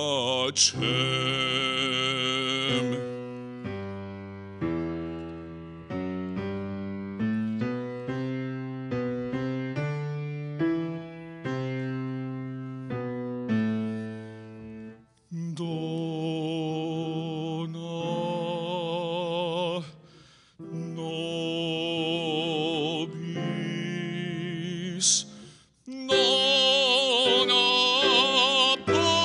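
A man singing a classical sacred solo with strong vibrato, accompanied by a grand piano. A few seconds in the voice stops and the piano plays alone for about twelve seconds, then the singing returns in long held notes.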